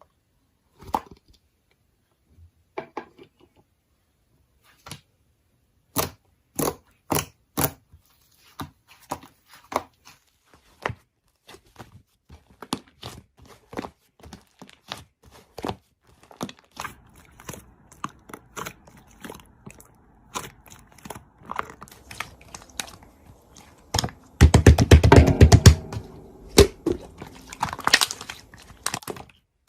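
Slime being squished and pressed by hand: scattered sticky clicks and pops, sparse at first and coming thicker after the first dozen seconds, with a dense run of crackling pops about 24 seconds in that is the loudest part.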